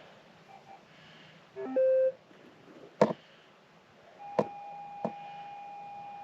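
Metal detector's electronic tones through its speaker, while it is being reset to quiet its noise. A short run of stepped beeps ends in one loud beep, followed by a sharp click. From about four seconds in a steady tone holds, with a few clicks over it.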